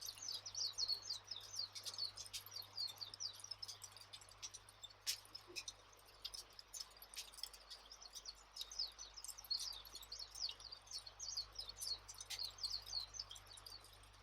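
Many small birds chirping rapidly and continuously, with a few sharp campfire crackles, the clearest about five seconds in.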